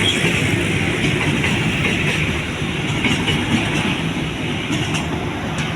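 Container freight train passing, a steady loud rumble of wagons running over the rails.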